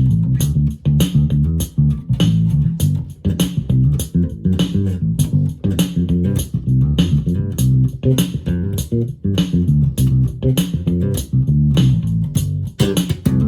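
Electric bass guitar played through a Roland Micro Cube Bass RX amp, an improvised bassline of plucked notes over the amp's built-in rhythm box drum pattern, with a steady beat of drum and cymbal hits.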